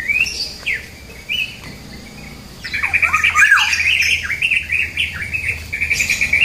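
Birds calling: a few short, separate chirps, then from about three seconds in a fast, dense run of chattering notes with some quick downward-sweeping calls.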